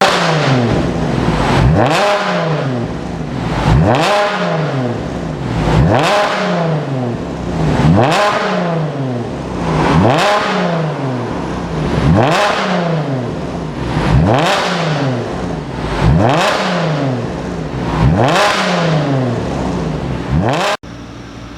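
Chevrolet Camaro's 3.6-litre V6 being free-revved through an aftermarket dual variable-valve exhaust. It makes about ten blips, one roughly every two seconds, each rising quickly and falling back. Near the end it cuts suddenly to a quieter, steady running sound.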